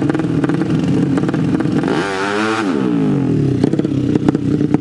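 Drag-racing motorcycle engines running with crackling, then one bike revving up sharply about two seconds in, its pitch climbing and then falling away over the following second.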